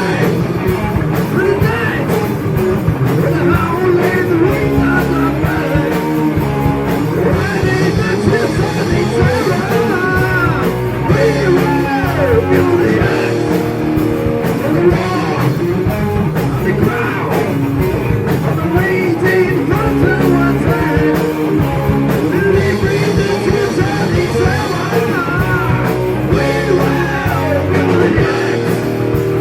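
Heavy metal band playing loud, with distorted electric guitars over bass and drum kit. A lead line bends up and down in pitch above the band.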